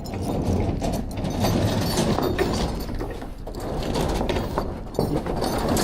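Metal rigging hardware clicking and rattling as a recovery strap is handled and hooked up, over a steady low rumble.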